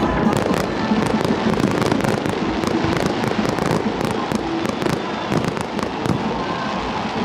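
Aerial fireworks shells bursting in a rapid run of bangs and crackles, thinning out near the end.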